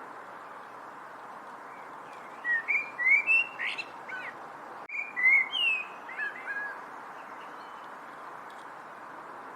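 A bird singing two short bursts of quick chirps that swoop up and down, one about two and a half seconds in and another about five seconds in, over a steady background hiss.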